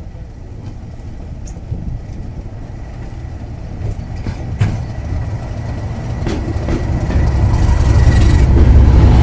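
A pair of Class 37 diesel locomotives arriving, their English Electric V12 engines running with a low rumble that grows steadily louder, loudest near the end. A thin steady high whistle runs over it, and a few sharp clicks come in the middle.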